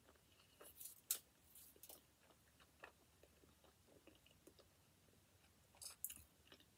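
Faint chewing of a mouthful of veggie pizza: soft mouth smacks and clicks, with a cluster of sharper ones about a second in and again near the end.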